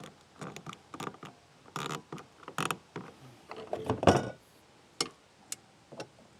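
Irregular clicks, taps and short scrapes from the kayak landing-gear crossbar being nudged sideways in its loosened mounting brackets, with a louder knock and scrape about four seconds in.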